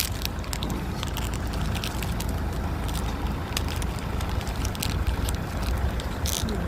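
A vehicle engine running steadily with a low rumble, with scattered crackling clicks over it.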